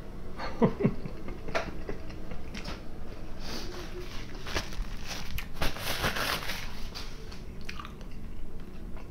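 A person chewing a mouthful of juicy beef cutlet close to the microphone, with irregular wet mouth clicks. A short rushing noise comes about six seconds in.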